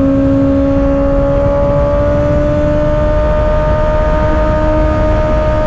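A 2024 Kawasaki ZX-6R's inline-four engine, heard through an M4 aftermarket exhaust, running at high revs under steady load, its pitch climbing slowly and evenly as the bike gathers speed. Wind rushes over the rider's microphone underneath.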